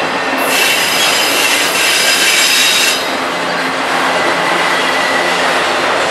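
Norfolk Southern autorack freight cars rolling past: a steady rumble and rattle of steel wheels on rail, with a thin high-pitched wheel squeal that is strongest for the first three seconds and then eases.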